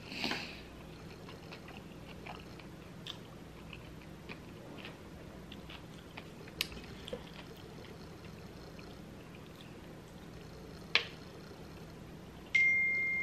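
Quiet mouth sounds of someone chewing food, with scattered soft clicks and a sharp click about eleven seconds in. Near the end a steady high tone begins and holds.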